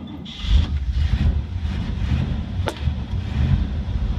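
1969 GMC dump truck's V8 engine running on choke just after a cold start in 14-degree weather, picking up about half a second in. A single sharp click comes about two and a half seconds in.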